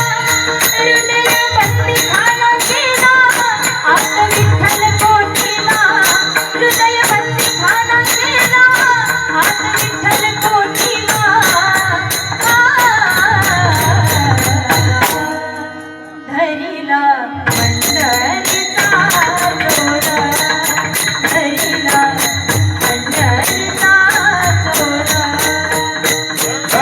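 Marathi devotional kirtan singing: a voice sings a winding melody over steady sustained tones, with hand cymbals striking an even beat. The cymbals drop out for about two seconds a little past the middle, leaving the voice and held tones quieter, then come back.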